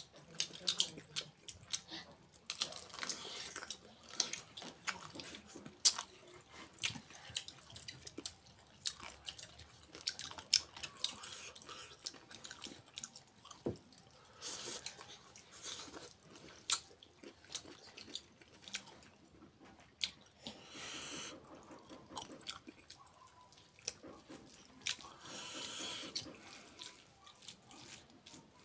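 Close-up sounds of a man eating chicken and rice with his hand: chewing and wet mouth clicks throughout, with a few short stretches of hiss.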